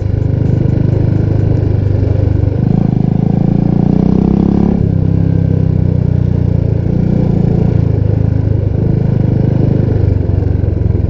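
Royal Enfield Bullet 350 Classic's single-cylinder engine running loudly through a 'Punjabi dhol' aftermarket exhaust. About two and a half seconds in it revs up in a rising pitch, then drops back suddenly a couple of seconds later and settles to a steady note.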